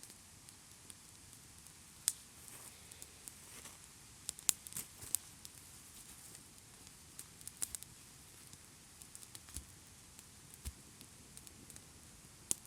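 Irregular small crackles and sharp clicks over a faint steady hiss, with a few louder snaps scattered through.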